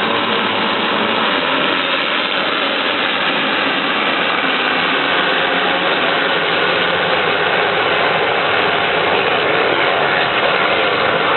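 Motocross motorcycle engines running, a loud continuous rasping mechanical noise that holds steady without a break.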